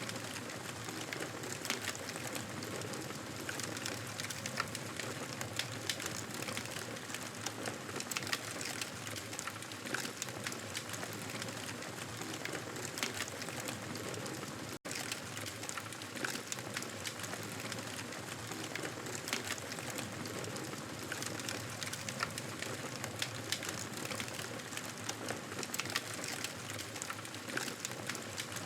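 Wood fire crackling in a fireplace: a steady hiss scattered with many small sharp pops and snaps. It cuts out for an instant about halfway through.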